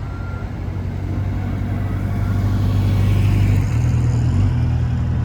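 Motor vehicle engines rumbling close by: a steady low hum that grows louder over the first three seconds or so, with a rushing hiss as they come nearest.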